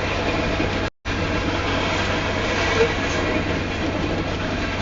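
A Union Pacific coal train with hopper cars passes close by, its wheels running on the rail in a steady, dense rumble. The sound cuts out for a split second about a second in.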